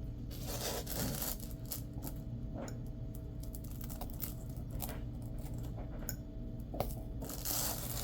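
X-Acto craft knife cutting around a patch glued onto Velcro: scattered short scratches and clicks of the blade, with longer rasping cuts near the start and again near the end, over a steady low hum.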